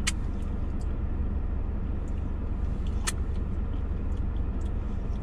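Steady low rumble of a parked car's engine idling, heard inside the cabin. Two brief sharp clicks, near the start and about three seconds in.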